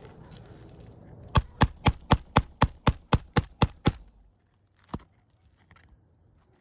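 Roofing hammer striking a 3-tab asphalt shingle tab in a quick, even run of eleven blows, about four a second, then one more blow a second later. These are repairability-test strikes on a weathered shingle, knocking granules loose and breaking the mat.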